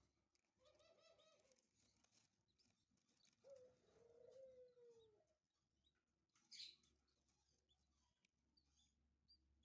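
Faint bird sounds: a low call of about a second near the start, then a longer low, coo-like call of about two seconds whose pitch drops at its end. A brief hissy rustle comes about six and a half seconds in, with a few faint high chirps scattered through.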